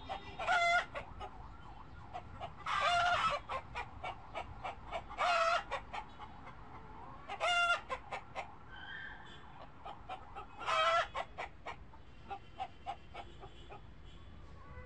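Chickens calling: five loud, drawn-out calls a couple of seconds apart, with quick short clucks in between.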